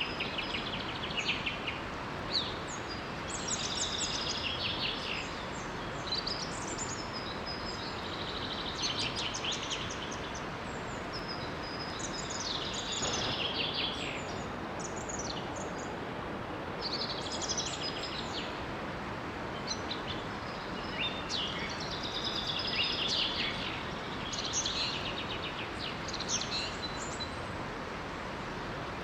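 Songbirds singing short, fast trilling phrases every few seconds over the steady rush of a small waterfall.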